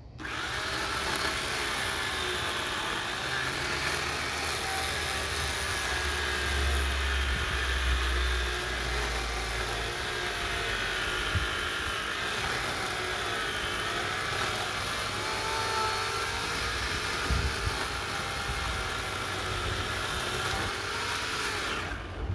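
Corded electric chainsaw running and cutting through wood, its motor pitch wavering as the load changes; it starts and stops abruptly.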